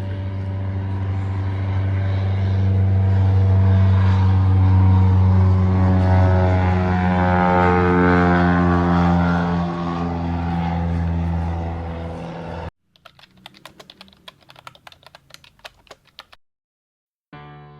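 A motor vehicle engine running close by, growing louder toward the middle and then easing off, before cutting off abruptly about two-thirds of the way through. A quick run of sharp, typing-like clicks follows, and piano music begins just at the end.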